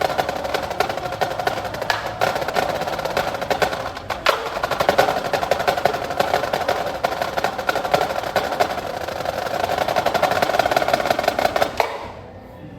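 Wind and percussion ensemble playing: fast, dense drum and wood-block-like strokes over a held tone, cutting off abruptly near the end as the piece finishes.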